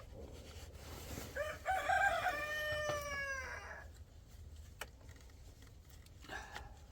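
A rooster crowing once: one long call of about two and a half seconds that falls slowly in pitch toward its end.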